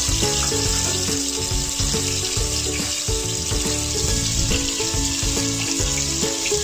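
Background music with a steady beat over garlic, onion and tomato sizzling in hot oil in a pot.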